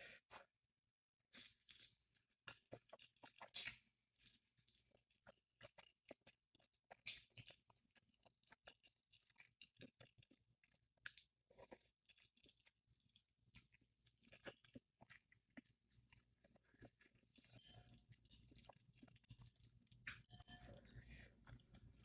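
Close-up mouth sounds of someone eating spicy instant ramen noodles: soft wet chewing and smacking, with many small irregular clicks. A low rumble comes up in the last few seconds.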